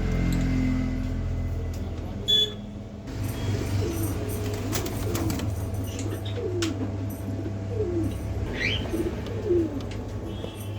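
Birds calling: a series of short, low, falling notes, about one a second, and a single high rising chirp near the end, over a steady low hum.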